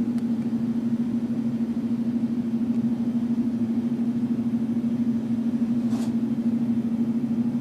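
Steady low mechanical hum, one constant tone, with a faint short sound about six seconds in.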